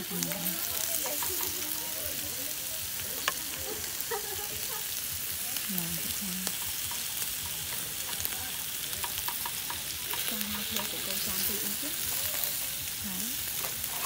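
Food frying in hot oil, a steady sizzle with scattered crackles and pops.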